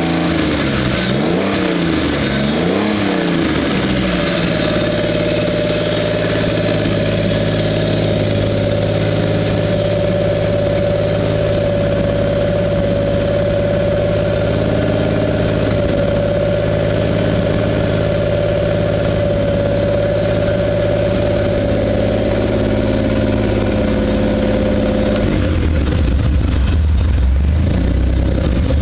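Modified race car's V8 engine warming up after a cold start: revved up and down about three times, then held at a steady fast idle, dropping to a lower, rougher idle near the end.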